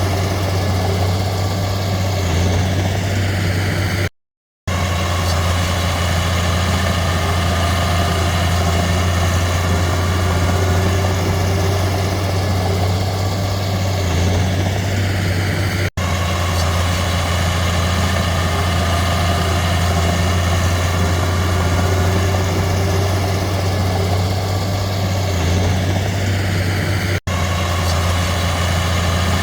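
Heavy diesel engine of earthmoving machinery running steadily with a deep hum. The sound cuts out for a moment about four seconds in, and twice more for an instant later.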